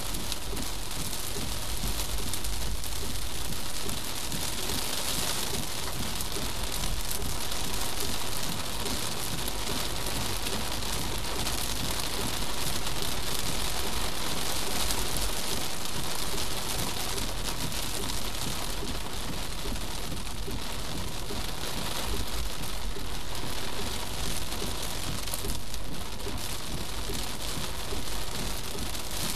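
Heavy rain pelting the car, a steady dense hiss over a low road rumble, picked up by a windshield-mounted dash cam inside the cabin.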